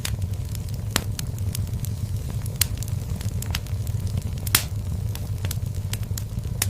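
Wood fire burning in a fireplace: a steady low rumble of the flames with irregular sharp crackles and pops, the loudest pop about four and a half seconds in.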